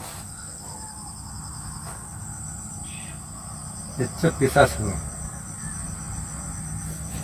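Crickets chirping steadily as a continuous high-pitched night chorus.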